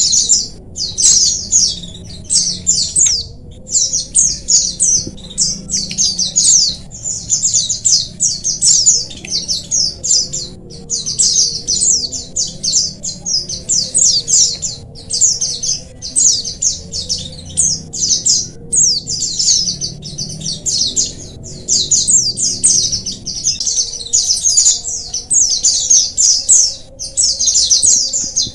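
A colony of white-eyes (pleci) chirping together: dense, rapid, high-pitched twittering in closely packed bursts with brief gaps, continuing without a break.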